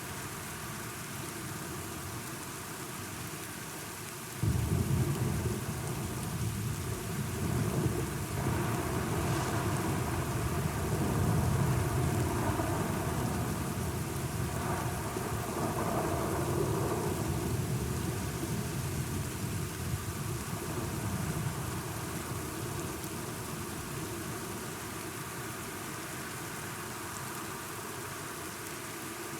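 Steady rain with a thunderclap breaking in suddenly about four seconds in, then a long low rumble that rolls on and slowly fades over the next fifteen seconds or so.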